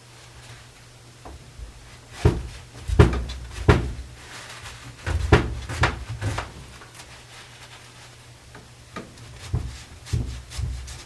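Irregular knocks and clunks of wood and tools being handled during a chair glue-up, in a cluster of about seven between two and six seconds in and a few more near the end.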